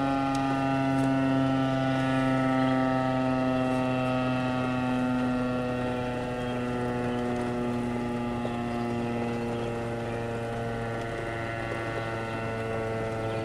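Outdoor tornado warning siren sounding a steady tone that sags slowly in pitch, as when a rotating siren winds down.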